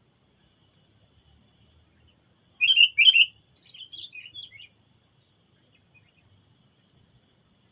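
A songbird calling: two loud, sharp chirps a couple of seconds in, followed by a short run of softer, varied chirps.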